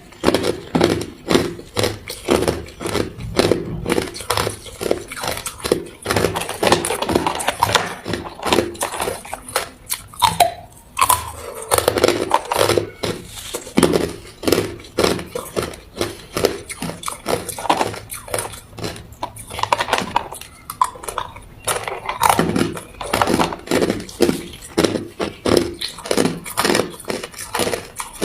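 A person biting and chewing ice close to the microphone: a steady run of loud, sharp crunches, several a second.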